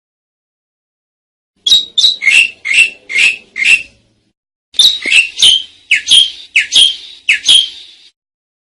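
Asian pied starling (jalak suren) calling: two runs of loud repeated notes, about three a second, each note falling in pitch, with a short pause between the runs.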